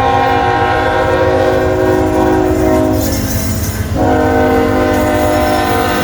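CSX freight locomotive's air horn sounding a held chord that breaks off about three seconds in and sounds again a second later, over the low rumble of the passing locomotives and train.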